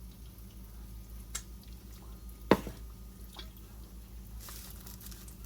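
Kitchen handling sounds while pancake batter is poured into a hot pan: soft squishy, dripping sounds and a few light clicks, with one sharp knock about halfway through, over a steady low hum.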